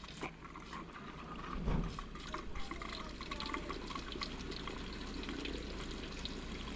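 Water pouring and splashing steadily as the crusty radiator and cooling system are flushed out.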